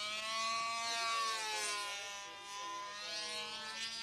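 Model airplane engine running in flight, a steady buzzing note whose pitch slides down through the middle and climbs again near the end as the plane passes and turns.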